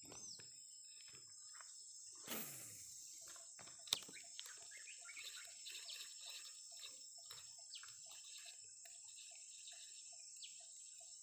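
Quiet swamp ambience: a steady high hiss with faint bird chirps and, in the second half, a run of short evenly spaced calls, about two to three a second. A brief falling swoosh about two seconds in and a sharp tick near four seconds.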